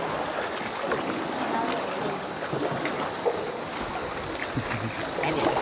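Paddles working a sea canoe through the water: steady swishing and trickling of water around the hull.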